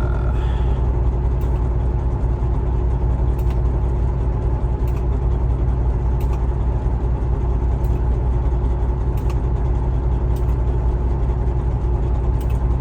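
Semi truck's diesel engine running steadily at low revs, an even low drone.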